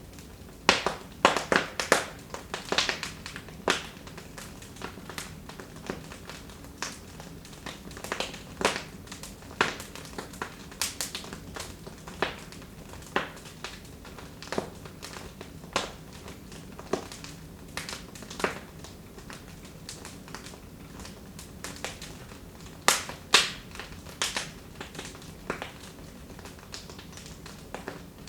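Wood fire crackling in a fireplace. Irregular sharp pops and snaps come over a low steady hiss, with a denser flurry of pops about a second in and another later on.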